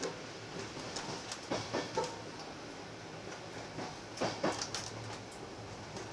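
Moving passenger train heard from inside the carriage: steady rolling noise, with two quick pairs of knocks as the wheels cross rail joints, about a second and a half in and again past four seconds.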